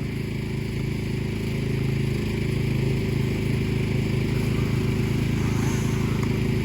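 Vehicle engine running steadily, getting a little louder about a second and a half in.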